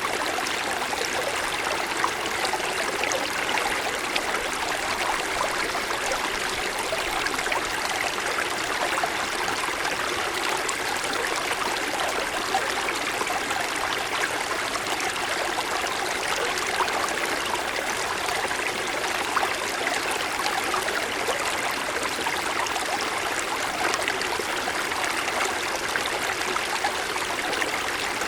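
Small mountain stream flowing over stones, a steady babbling and splashing rush of water.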